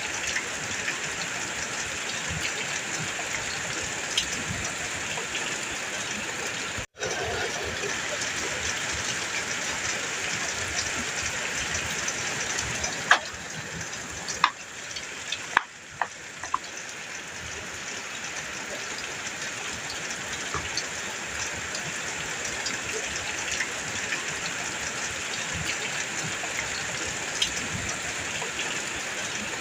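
Heavy rain drumming on a metal roof as a steady hiss, with a few sharp drip impacts in the middle and a brief cut to silence about seven seconds in.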